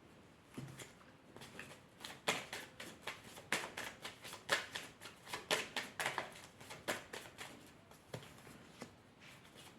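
Tarot or oracle cards being shuffled and handled: a run of soft, irregular card slaps and rustles, faint at first and more frequent from about two seconds in.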